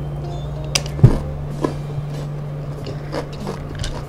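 Close-miked chewing of a mouthful of rice and crispy fried kremesan crumbs: a run of sharp crunches, the loudest about a second in, over a steady low hum.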